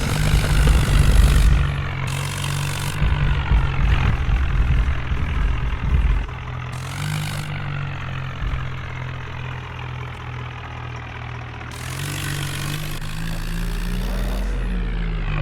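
Farmtrac tractor's diesel engine running steadily, with a heavy low rumble over the first six seconds and its pitch lifting slightly a couple of times.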